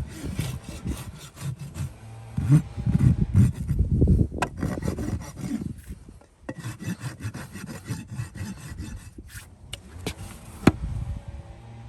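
Farrier's rasp filing a horse's hoof in quick back-and-forth strokes, with a short pause about six seconds in and a couple of sharp clicks.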